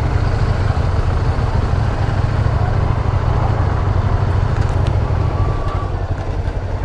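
150cc motorcycle running, with a heavy low rumble that eases a little about five and a half seconds in.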